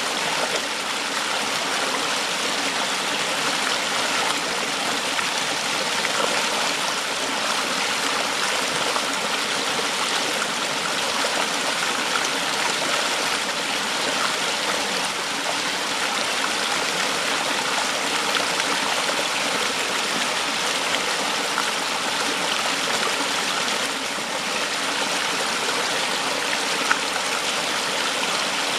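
Waterfall: water rushing over rocks and falling, a steady, unbroken rush. One brief tick sounds near the end.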